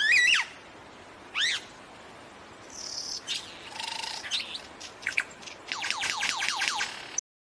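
A bird calling in a varied string of whistled notes: a couple of looping, up-and-down gliding whistles, a high buzzy note, then a quick run of short downward-sweeping notes. The sound cuts off suddenly about seven seconds in.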